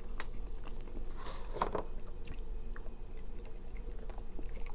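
Close-up chewing of a burger: wet mouth sounds and soft crunches, with a louder bite about a second and a half in.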